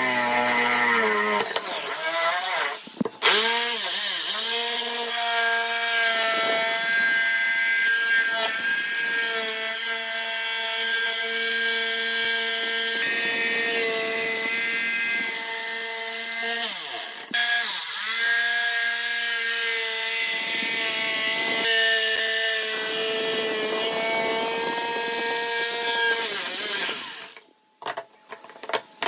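Electric power tool motor whining steadily as it works wood, with its pitch sagging briefly twice as the cut loads the motor. It stops near the end.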